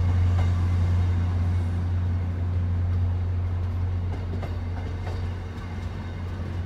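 MBTA commuter rail bilevel coaches rolling slowly past as the train comes into the station, wheels clicking now and then over rail joints, over a steady low hum. The sound eases off after about five seconds as the last car, the cab car, goes by.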